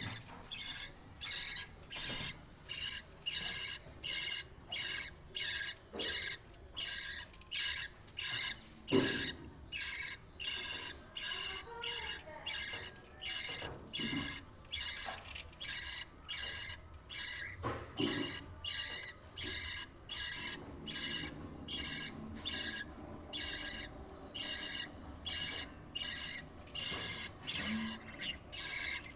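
Budgie chicks giving shrill begging calls while being fed, a short squeak repeated about twice a second without a break.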